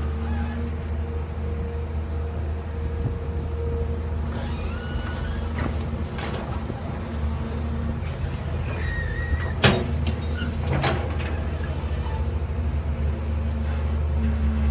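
Heavy machine's diesel engine running steadily, with a few short high squeals and a sharp metallic knock about ten seconds in, then a smaller one a second later.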